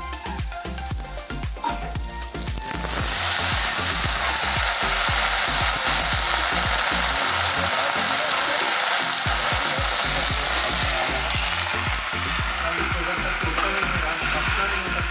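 Onions and green chillies sizzling in oil in a kadhai, with clicks of stirring. About three seconds in, the sizzle jumps to a loud, steady hiss as wet, freshly washed karmata bhaji (leafy greens) goes into the hot oil.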